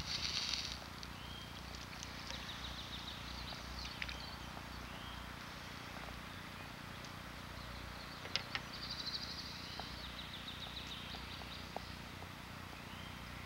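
Faint woodland birdsong: short, high chirping phrases now and then over a soft, steady background hiss, with a few small clicks in the middle.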